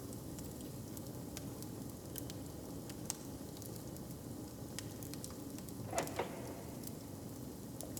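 Open wood fire crackling, with scattered sharp pops over a steady low rumble. A brief louder sound comes about six seconds in.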